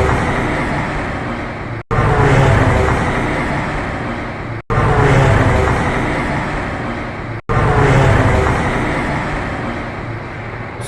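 Boeing 787-8 airliner passing low just after takeoff, a few-second clip played four times in a row with abrupt cuts between repeats: a loud, noisy whirring drone with low humming tones, each repeat fading slightly. The drone sounds more like a propeller plane than a jet and is suspected to be the ram air turbine spinning after deploying in an emergency.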